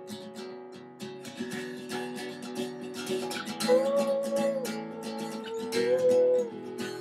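Instrumental passage of a song: acoustic guitar strumming chords, with a held melody line over it that swells and glides twice.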